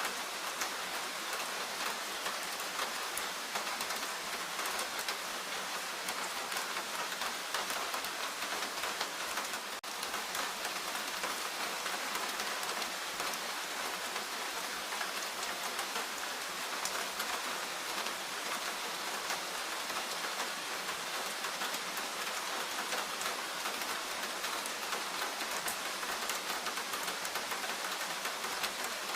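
Steady forest rain: an even hiss of rainfall with many small drop ticks, briefly dipping about ten seconds in.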